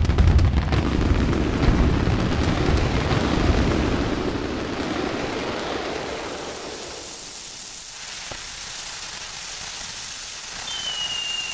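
Aerial fireworks bursting: deep booms and rolling rumble that die away over several seconds into a fainter hiss. Near the end, a thin high whistle slides down in pitch.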